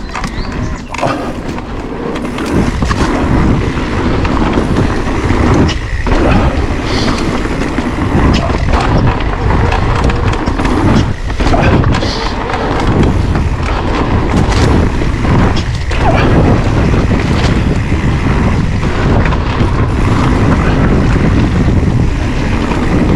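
Riding noise from an electric mountain bike on a woodland trail: a steady rumble of wind on the action-camera microphone and tyres on the ground, with scattered knocks and rattles as the bike goes over bumps.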